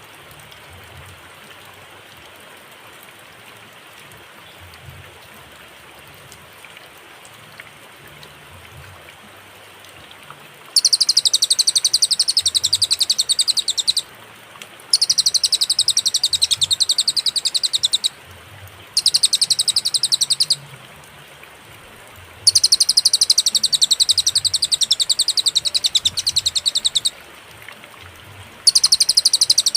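Cililin song from a bird-song training recording: very rapid, high, trilled notes in phrases of a few seconds, broken by pauses of about a second, starting about a third of the way in. Before the song there is only a steady faint hiss like rain or running water.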